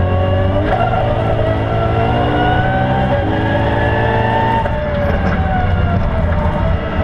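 BMW E92 M3's V8 engine heard from inside the cabin under hard acceleration on track, its pitch rising for about four seconds, then falling as the driver comes off the throttle for a corner.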